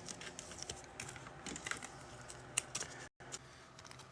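Trading cards and their pack wrappers being handled on a table: faint, scattered light clicks and rustles. The sound cuts out completely for a moment about three seconds in.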